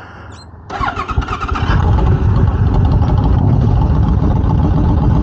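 Motorcycle engine starting about a second in, catching and settling into a steady, loud idle rumble.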